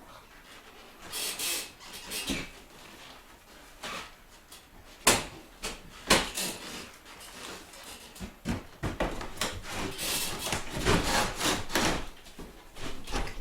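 Intermittent knocks and a few sharp clacks, then a stretch of scraping and rubbing near the end: parts being handled and fitted during fireplace installation work.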